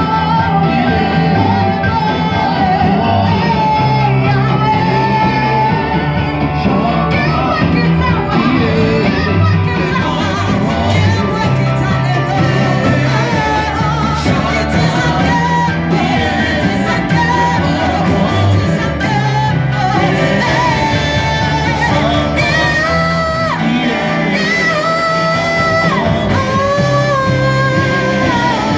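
Church worship music: voices singing a melody over a band with a steady bass line, continuous and loud.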